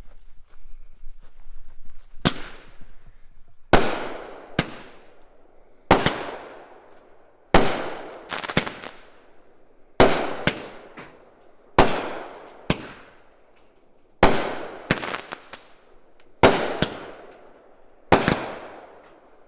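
A 200-gram Dominator Kapow firework cake firing its shots: about two seconds in, a string of a dozen or so sharp bangs begins, coming every one and a half to two seconds, some followed closely by a second bang, each trailing off in an echo.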